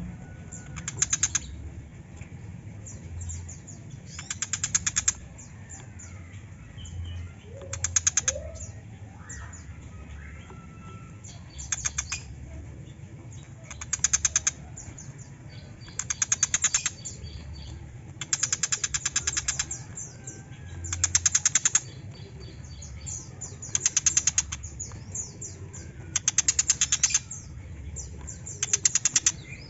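Tiger shrike (pentet macan) calling: loud bursts of rapid, harsh chattering, each about a second long and repeated every two or three seconds, with softer chirps and short whistles between them. A steady low hum runs underneath.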